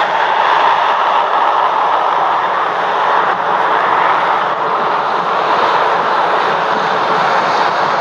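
Jet airliner noise: a loud, steady rush of engine and airflow sound that holds even throughout.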